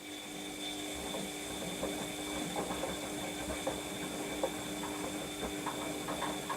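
Washing machine motor turning the drum for one stretch of the wash: a steady motor whine with irregular small knocks from the tumbling load. It starts and stops about six and a half seconds apart.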